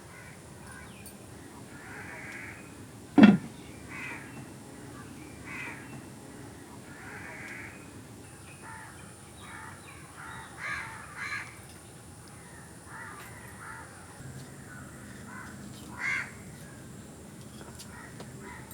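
Birds outdoors giving a long series of short, harsh calls, with a single sharp knock about three seconds in.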